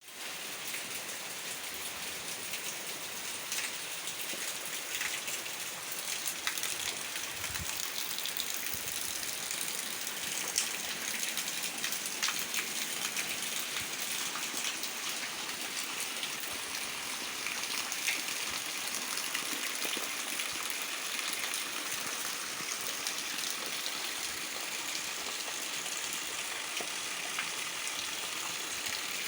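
Heavy rain falling steadily, a continuous hiss with scattered drops ticking on surfaces.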